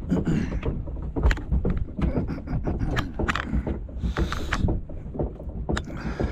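Wind buffeting the microphone as a low rumble, with irregular clicks and knocks from handling on a boat.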